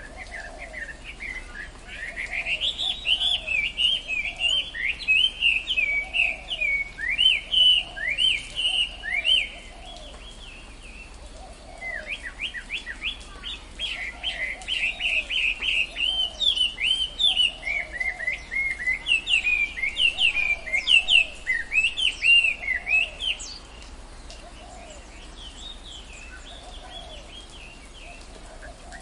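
Tropical forest birds singing: a rapid, chattering run of high chirps in two long bursts, the second starting about halfway in. Underneath, a lower call repeats steadily the whole time.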